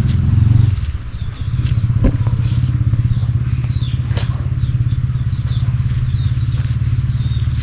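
Motorcycle engine running steadily, with a brief dip about a second in; birds chirp faintly over it.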